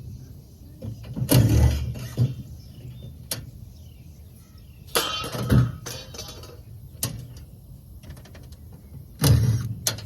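Tools working on the metal of a large AC unit being torn down for scrap: three short bursts of mechanical noise, each under a second, about four seconds apart.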